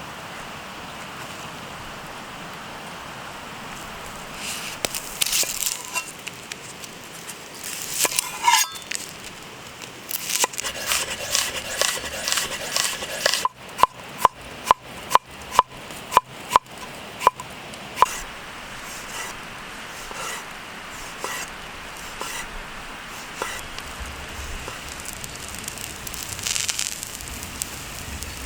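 Campfire crackling steadily under food-preparation handling noises, with a run of about nine sharp, evenly spaced knocks, roughly two a second, in the middle.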